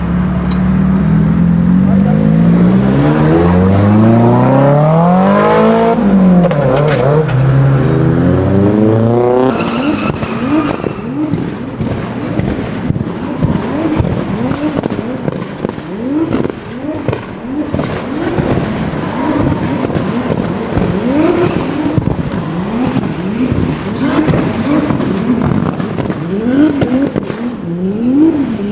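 A modified Nissan Silvia's engine revving hard, its pitch rising and falling in long sweeps. About nine seconds in the sound changes to quick, repeated throttle blips, each rev rising and dropping again in rapid succession, as in drifting.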